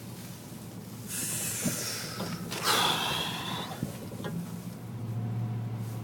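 Steady engine hum inside a vehicle's cab. Over it comes a breathy rush about a second in, then a louder, longer exhale a little later that falls in pitch.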